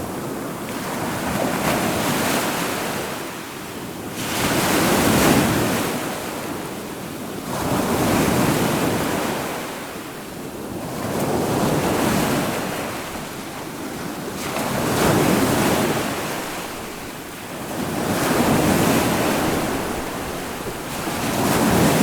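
Ocean waves surging and washing in over and over, one swell of surf noise about every three to four seconds.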